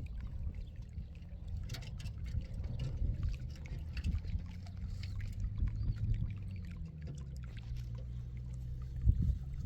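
An engine running steadily, with scattered knocks and clatter over it and a louder thump near the end.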